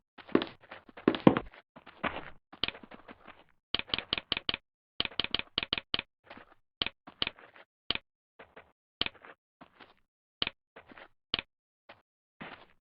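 A series of short, sharp taps or clicks, irregular in spacing, at times in quick runs of four or five, with silence between them.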